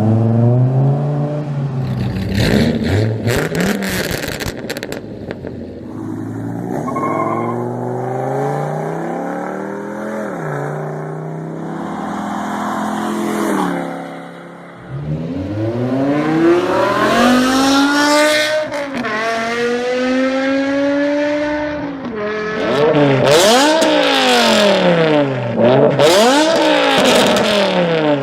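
High-revving V10 car engine accelerating hard through the gears, its note climbing and dropping at each shift. It eases off briefly about halfway through, then pulls again, with quick rises and falls in pitch near the end.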